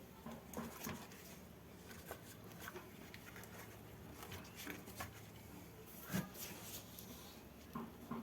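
Faint scattered light taps and clicks over a low steady hum, with a slightly louder knock about six seconds in.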